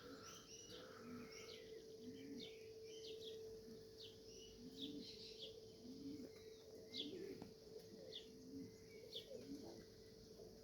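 Domestic pigeons cooing faintly, a short coo about every second, with small birds chirping high and quick. A faint steady hum runs underneath.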